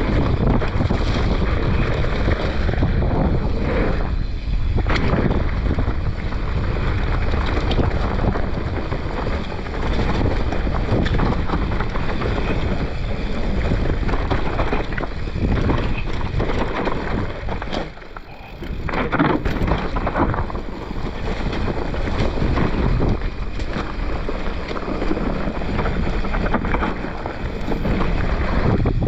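Wind buffeting the microphone of a mountain biker's on-board camera, mixed with the rumble and rattle of the bike and tyres over a rough downhill trail. The noise is steady and loud, with one brief lull about two-thirds of the way through.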